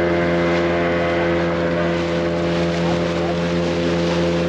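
A boat's motor running at a steady speed: an even, unchanging hum.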